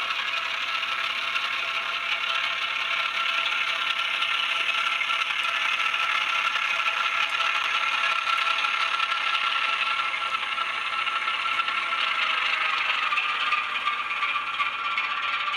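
N gauge Graham Farish Class 08 model locomotive running on the layout: its sound decoder plays a diesel shunter engine through the model's small speaker as a steady, tinny engine note, which drops slightly in pitch near the end, along with the rattle of the model running on the track.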